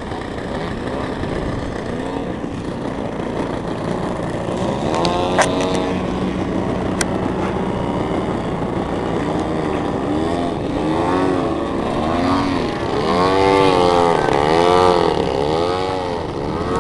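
A small petrol engine of a radio-controlled model airplane droning overhead, its pitch swinging up and down again and again as it flies past and manoeuvres, getting louder in the second half. A couple of sharp clicks sound in the first half.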